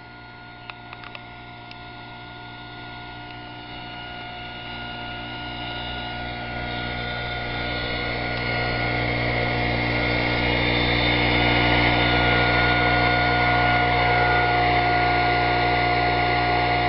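A 25 cc four-stroke overhead-valve leaf blower engine running steadily at an even speed on an experimental gasoline-substitute fuel. It grows louder over the first ten seconds and then holds level. A few light clicks come about a second in.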